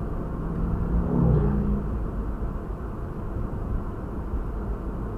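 Steady low road and engine rumble of a moving car, picked up by a dashcam. A short pitched sound rises out of it about a second in.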